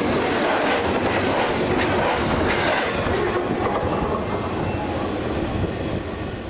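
Double-stack intermodal freight train's well cars rolling past, a rumble of steel wheels on rail with repeated clicks. The sound eases off slowly as the last car goes by and the train pulls away.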